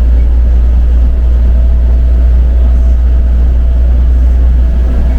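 Steady low rumble of a tour vehicle on the move, with a faint even motor whine over it.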